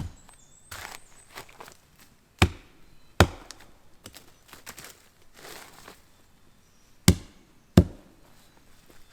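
Five sharp, woody knocks struck against the trunk of a rotten standing tree, in uneven pairs, testing whether the dead wood is still sound; the trunk proves still very solid.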